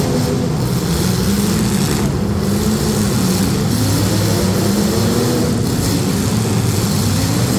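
Demolition derby street stock cars' engines running and revving, several at once, their pitch rising and falling.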